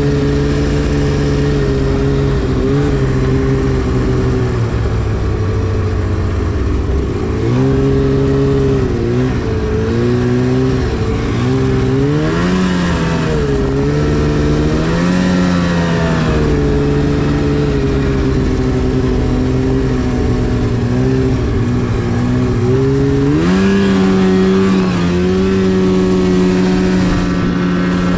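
Arctic Cat CFR 1000 snowmobile's two-stroke twin engine running under throttle, its pitch rising and falling as it revs up several times, then holding higher revs near the end.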